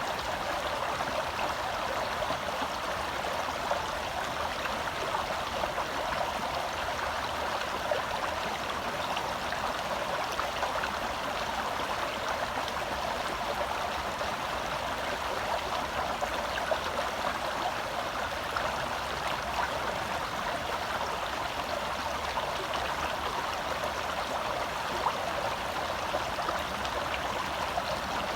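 Shallow forest stream flowing and burbling over rocks: a steady, even rush of water.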